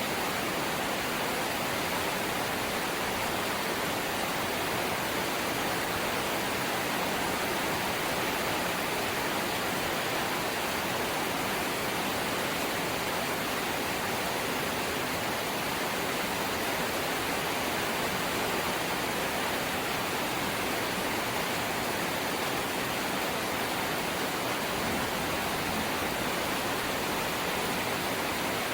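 Heavy rain falling steadily on a corrugated zinc roof: a dense, even hiss with no single drops or knocks standing out.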